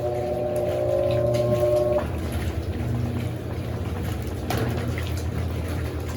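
Electrolux LAC16 top-loading washing machine running with water moving inside it, between the rinse and spin stages. A slightly rising whine cuts off suddenly about two seconds in, leaving a steady low hum and water noise.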